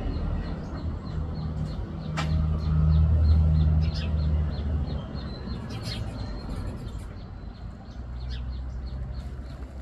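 Birds chirping: short high calls repeating about four times a second, with a few sharper calls, over a steady low rumble that swells a few seconds in and then eases.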